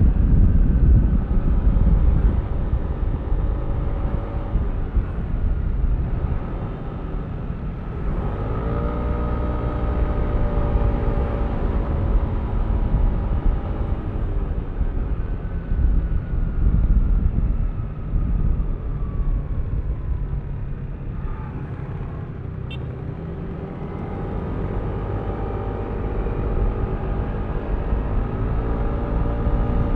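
Yamaha Aerox V3 scooter's single-cylinder engine and CVT under way, with a steady low wind and road rumble. The engine note climbs as it accelerates about eight seconds in, slides down as it slows around twenty seconds, then picks up again near the end.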